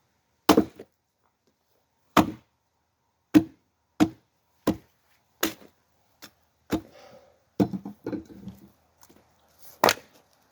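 About ten heavy blows splitting firewood, sharp separate strikes at an uneven pace. The log is knotty, and the knot resists splitting.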